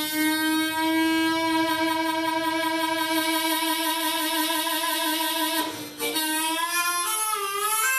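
A solo melodic instrument plays an improvised lament: one long held note, a brief break about six seconds in, then the pitch climbs near the end.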